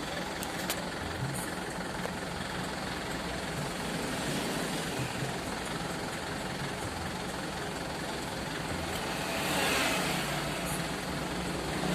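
Truck engine running steadily at low revs, swelling louder for about a second near the end.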